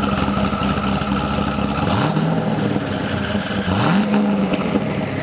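Twin-turbo C6 Corvette Z06's LS7 V8 running with the exhaust in quiet mode: a steady drone with the revs rising twice, about two seconds in and again near four seconds.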